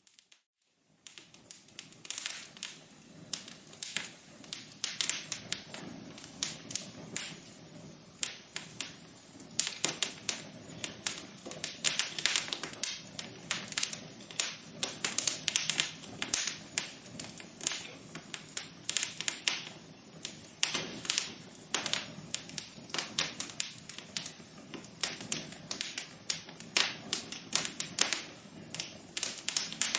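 Wood fire in a fireplace crackling: dense, irregular sharp pops and snaps over a low steady rush. The crackling starts about a second in, after a brief near-silent gap.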